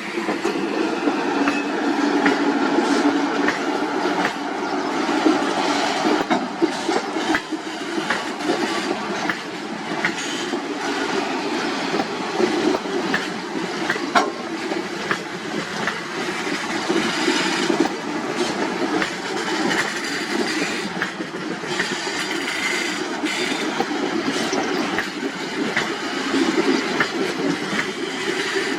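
Passenger train running, its steel wheels clattering steadily over rail joints in a continuous rumble.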